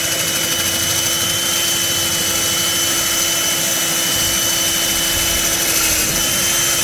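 Hilti diamond core drill running steadily under load as it bores the last inch of a 3-inch wet core through concrete, with a constant motor whine and grinding hiss. The concrete is packed with large 7/8-inch rock aggregate, which is what makes this cut slow and hard.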